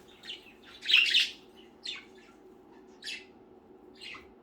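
Pet budgerigars giving a handful of short, harsh squawks and chirps, the loudest and longest about a second in.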